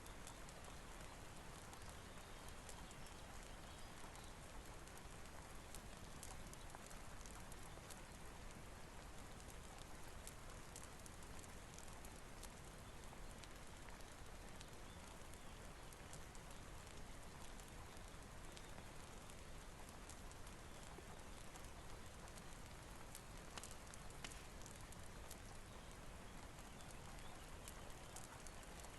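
Faint, steady rain with many small sharp crackles scattered through it, as from a wood fire burning in a fireplace.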